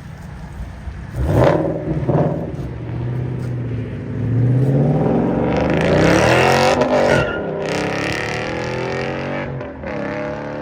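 Car engine blipped twice, then accelerating hard with its pitch climbing for a few seconds before dropping sharply at an upshift, after which it runs on at a steadier note. The shift is slow.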